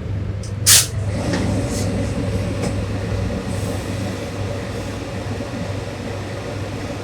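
An electric machine motor running steadily with a low hum. About a second in comes one short, sharp burst of noise.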